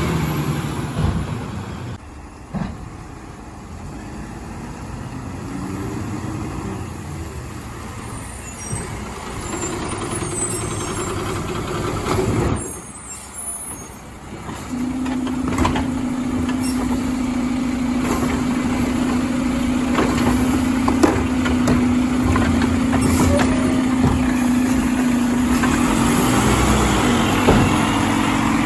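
Garbage trucks running. A steady engine drone sets in about halfway through and holds to the end.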